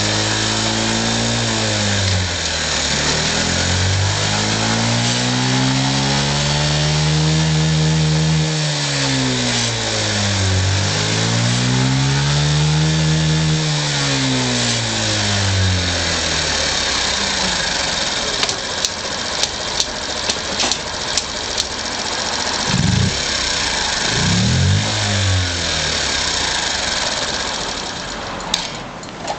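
A Honda Super Cub 50 Custom's fuel-injected 49 cc single-cylinder four-stroke engine (AA02E) being revved: twice the revs climb slowly and fall back, then it settles lower and takes two quick blips of the throttle. Sharp clicks come in the second half, and the engine note fades out near the end.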